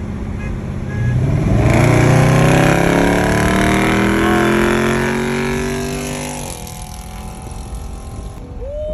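Dodge muscle car's HEMI V8 accelerating hard with a loud exhaust, the engine note climbing steadily for several seconds before it lets off about six and a half seconds in and fades away.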